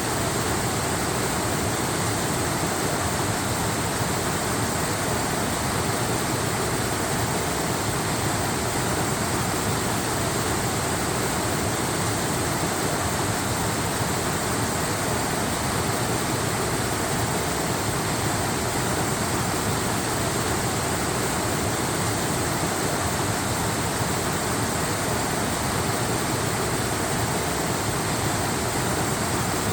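Waterfall: water falling and rushing in a steady, even wash of noise with no breaks or changes.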